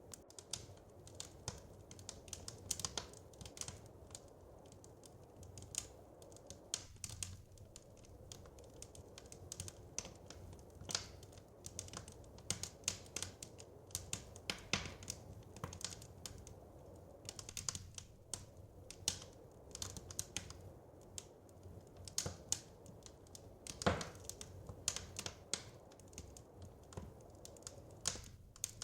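Wood fire crackling: irregular sharp pops and snaps of varying strength, several a second, over a low steady rumble.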